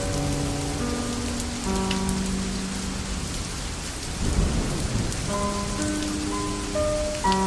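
Steady rain, with a low roll of thunder swelling and fading about four to five seconds in. Slow, sustained musical notes sound over the rain at the start, drop away in the middle and come back near the end.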